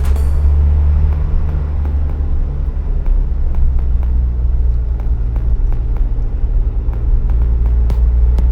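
Suzuki Jimny driving along, a steady low engine and road rumble with a few faint ticks scattered through it.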